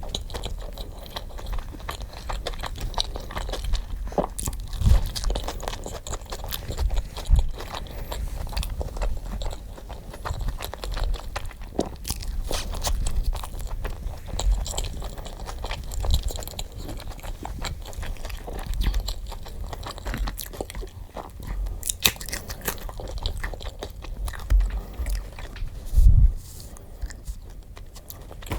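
Close-miked mukbang eating: a continuous run of crunchy bites and chewing, with a few heavier low thuds.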